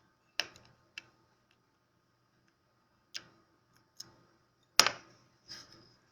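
Sharp clicks and taps of small hard parts and hand tools being handled while an MR16 LED spot bulb is taken apart: six separate clicks, the loudest a little before the end.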